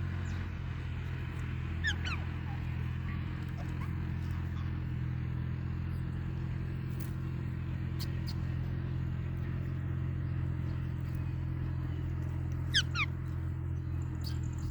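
Pet parrot giving short, sharply falling chirps, once about two seconds in and a louder quick pair near the end, over a steady low hum.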